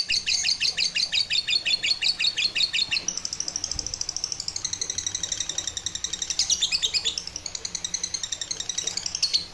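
A songbird chirping rapidly, about seven notes a second, then changing to higher, warbling trilled phrases. It cuts off suddenly near the end.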